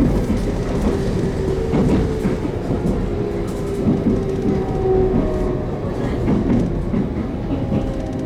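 JR Kyushu 813 series electric train running on rails, heard from inside the car: a steady rumble with wheel clicks over rail joints and a VVVF inverter motor whine that falls slowly in pitch as the train slows to stop at a station.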